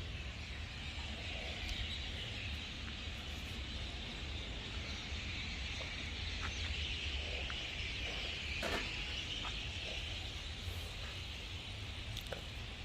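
A small refrigerator compressor, rigged as an air pump, running steadily while it pressurises a car's air-conditioning lines for a leak test. A low hum carries a steady hiss above it, with a few faint clicks.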